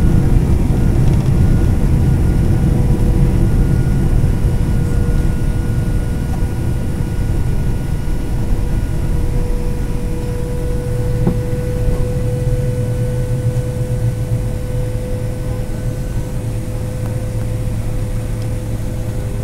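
Boeing 767-300ER jet engines running at low power, heard inside the cabin by the wing, likely taxi power after landing. A steady low rumble carries a thin steady whine, and the noise eases slightly over the stretch.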